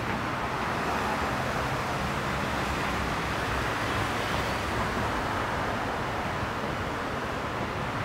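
Steady running noise of a commuter train at the station platform, an even rushing rumble with a low hum underneath and no sudden sounds.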